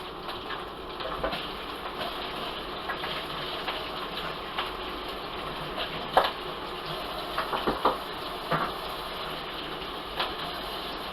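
Food sizzling in a frying pan, a steady hiss with a few sharp clinks of a utensil against the pan.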